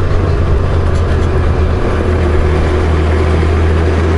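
Honda Goldwing GL1500 flat-six engine running at a steady cruise, a strong steady low drone under wind and road noise.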